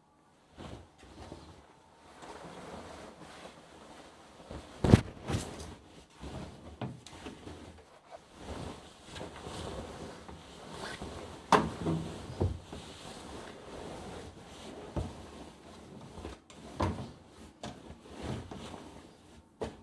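Household cleaning sounds: things being handled and set down, with scattered knocks and clicks over a soft rustle, the sharpest knocks about five and twelve seconds in.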